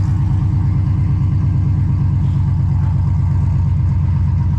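Truck engine idling steadily through 1-7/8-inch long-tube headers, a Y pipe and a 3-inch turn-down with no muffler: an open, unmuffled exhaust with an even low pulse. The engine is still cold from its cold start.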